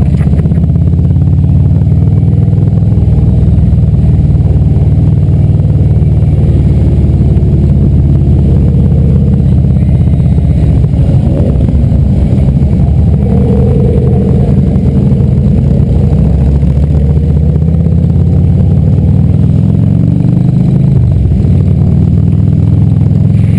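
Many motorcycle engines running together in a continuous loud rumble, with pitches shifting as bikes rev and pass.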